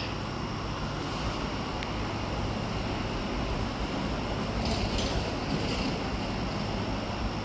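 Steady background rumble and hiss, with a few faint high-pitched chirps a little past the middle.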